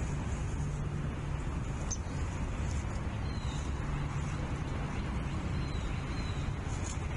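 Steady low outdoor rumble on a nest-cam microphone, with a few faint, short high bird chirps scattered through it.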